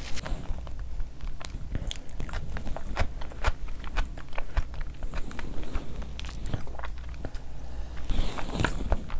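Close-miked mouth sounds of a person eating curry-coated food by hand: wet chewing with many sharp lip smacks and clicks. About eight seconds in a louder cluster comes as another mouthful goes in.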